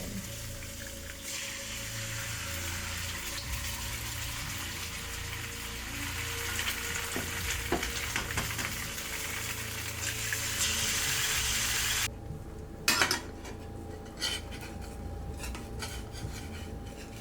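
Food sizzling in a frying pan, a steady hiss that cuts off abruptly about twelve seconds in, followed by scattered clinks of cutlery against dishes.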